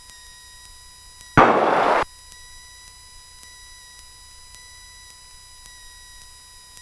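A single loud burst of static-like hiss, about half a second long, that cuts in and out abruptly over a steady faint electrical hum from the aircraft's headset audio.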